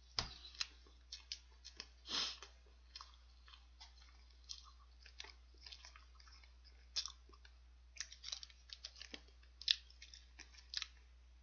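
Close, faint chewing of a soft cream-filled sponge cake (Lotte Custard green tea latte): irregular small mouth clicks and smacks, a few louder than the rest.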